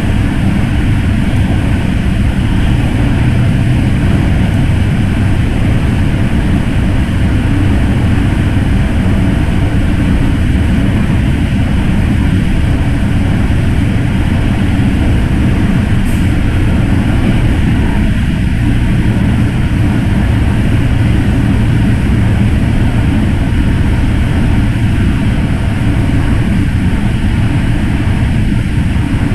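MTR M-Train electric multiple unit running at steady speed: a constant loud rumble of wheels on rails and running gear, with no change through the stretch.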